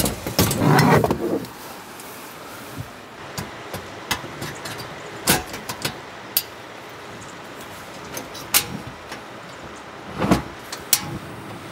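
Clicks, knocks and clatter of a portable gas-canister camping stove being taken out and set up by hand, with a louder rattle about a second in and another near the end.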